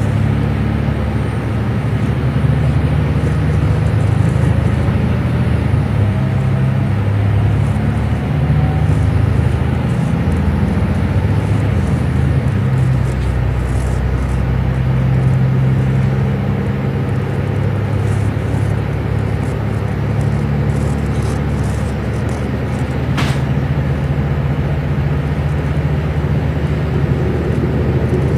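Train running with a steady low rumble. A faint rising whine comes in the first third, and a brief sharp high sound about two-thirds of the way in.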